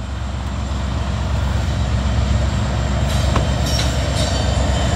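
Diesel freight locomotives approaching and passing close by: a steady low engine rumble with wheel and rail noise, growing louder over the first couple of seconds and then holding.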